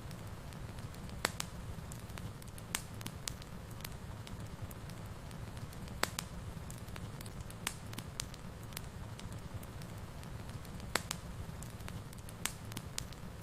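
Wood fire in a fireplace crackling, with sharp pops at irregular intervals over a low, steady rumble. A few of the pops are markedly louder than the rest.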